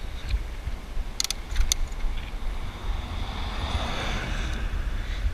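Wind rumbling on the microphone while riding a bicycle along a road, with a few sharp clicks a little over a second in. A car passes, its noise swelling and fading around three to four seconds in.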